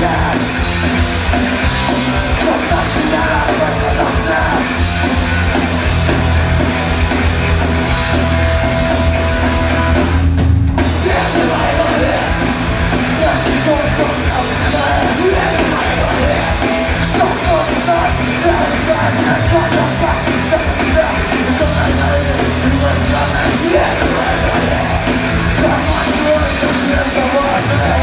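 Rock band playing live and loud, with shouted vocals over the full band. The high end drops out briefly about ten seconds in.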